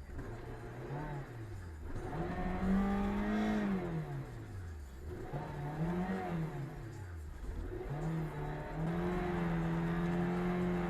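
Car engine revving up and easing off about three times, its pitch climbing and sinking each time, then holding at steady revs for the last couple of seconds.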